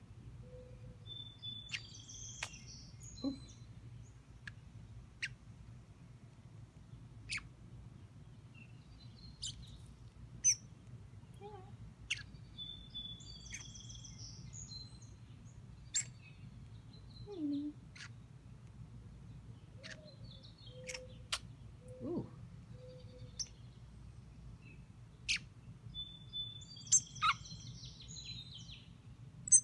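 Birds chirping: short, sharp chirps every second or two, with brief warbled phrases about two seconds in, near the middle and near the end.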